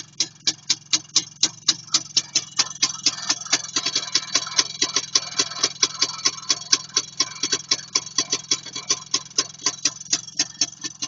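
IZh Planeta 5 motorcycle's single-cylinder two-stroke engine running, with sharp, evenly spaced pops about five a second over a low hum. The sound gets busier for a couple of seconds in the middle.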